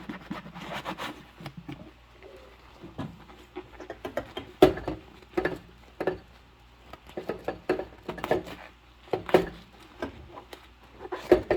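Rubber-gloved hands washing dishes: irregular squeaks, rubbing and light knocks, the loudest about four and a half seconds in and again near the end.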